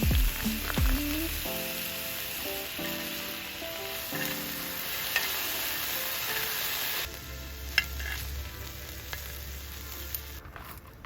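Food sizzling and frying in a hot pan, a steady dense hiss with a few sharp ticks and pops, which drops away suddenly near the end.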